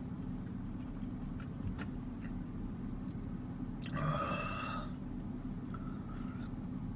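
A steady low hum, with a few faint clicks and one short throaty vocal sound from a man about four seconds in.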